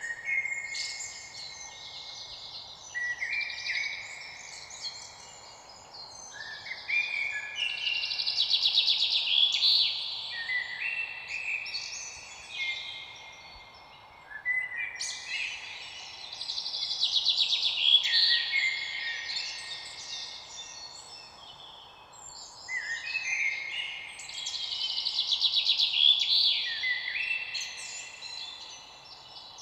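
Birdsong: dense chirping and whistled phrases that swell about every eight seconds, each swell peaking in a loud rapid trill, over a faint steady hiss.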